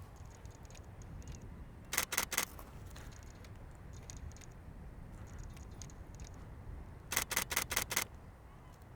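Camera shutter firing in burst mode: a quick run of three or four clicks about two seconds in, then a longer run of about six clicks near the end.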